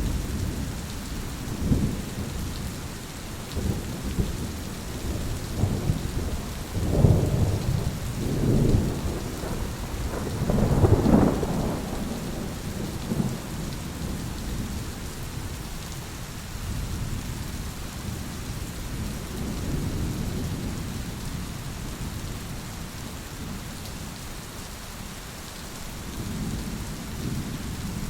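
Thunder rolling in several low peals, loudest about a third of the way in, then fading to a distant rumble, over steady rain.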